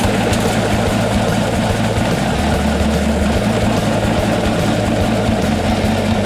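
Washing machine drum spinning at full speed on worn-out bearings: a loud, steady rumbling whir with a deep hum.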